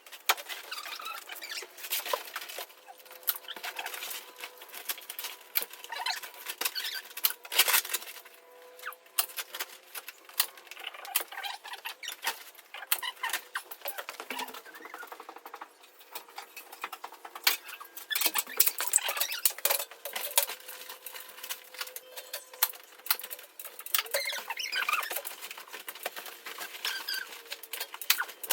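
Thin aluminium reflective insulation foil being handled and fitted, crinkling and rustling in irregular sharp crackles.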